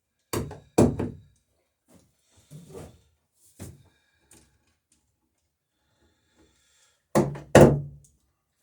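Hammer striking nails through a wooden dory's sheer strake planking during riveting. There are two pairs of sharp blows, one pair about a third of a second in and a louder pair near the end, with a few lighter knocks between.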